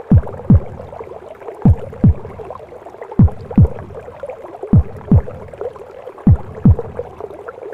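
Recorded maternal heartbeat for womb-sound sleep audio: slow, low double thumps (lub-dub) about every second and a half, five beats in all, over a steady muffled rushing womb-sound bed.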